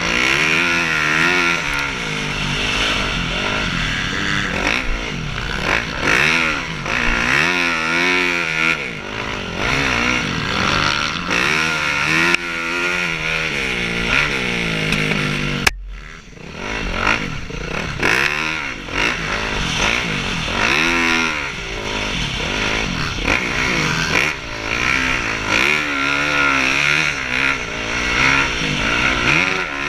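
Motocross dirt bikes racing, their engines revving up and falling back again and again, several bikes overlapping. The sound drops out abruptly for a moment about halfway through.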